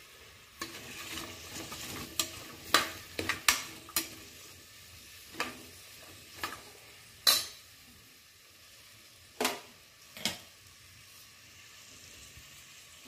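Onions, garlic, ginger and whole spices sizzling in groundnut oil in an aluminium pressure cooker as they are sautéed, stirred with a perforated steel ladle that clinks and scrapes against the pot about a dozen times. The sizzle is stronger in the first four seconds and quieter after.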